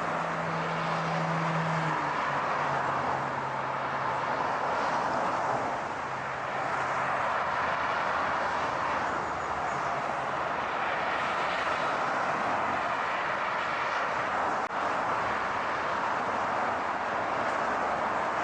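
Car driving: a steady rush of road and tyre noise under a low engine hum. The hum drops in pitch about two seconds in and fades out around the middle.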